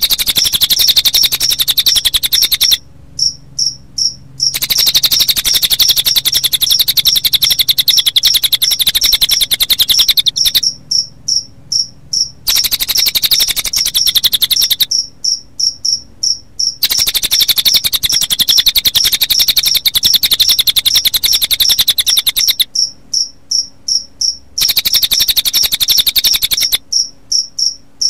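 Recorded cililin bird song mixed with cricket chirping: long runs of a rapid, high-pitched trill, broken every few seconds by short pauses that hold a few separate high chirps.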